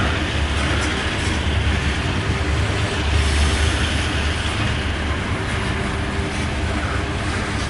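Loaded coal hopper cars of a freight train rolling past: a steady rumble of steel wheels on the rails.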